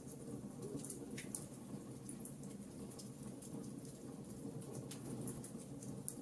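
Wood fire crackling in a fireplace: scattered small snaps and pops over a low, steady rumble, with a slightly louder pop about a second in and another near the end.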